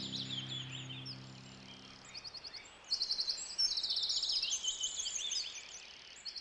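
Several songbirds chirping and singing, with fast trills of rapidly repeated high notes that grow louder about three seconds in. A held music chord fades out during the first two seconds.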